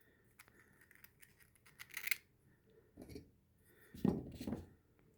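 Small 3D-printed plastic rim parts being handled and fitted together: light clicks and scrapes, then a few short rubbing sounds of plastic on plastic about three and four seconds in.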